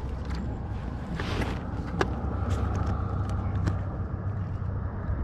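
Light knocks and taps of a bass and gear being handled on a measuring board in a kayak, over a steady low rumble.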